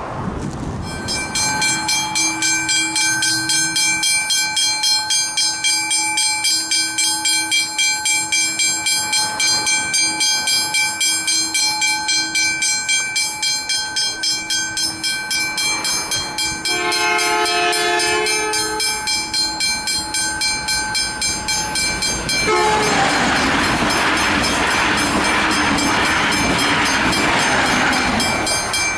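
Westinghouse Hybrid level-crossing bell ringing with rapid, even strokes. A train horn sounds a chord for about two seconds around the middle, and from about 22 seconds in a passing train's rumble and wheel noise swamps the bell until near the end.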